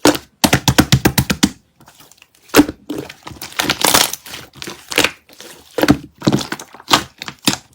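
Mychew chewy candy packaging handled close to the microphone: a quick run of about ten taps or clicks, then irregular crackling and crinkling.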